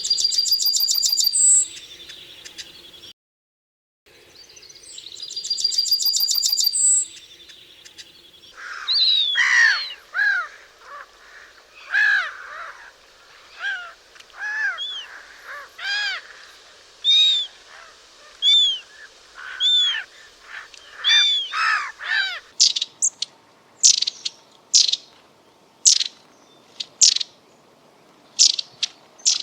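Songs and calls of three different European bird species, one recording after another. First comes a high, rapid buzzy trill given twice with a short complete break between. Then a run of arched whistled notes. Last, a series of short, sharp high notes.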